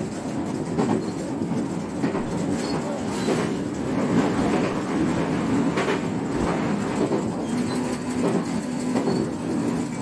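JR West 125-series electric railcar running along the line, a steady rumble of wheels on rail with occasional clicks as the wheels pass over rail joints.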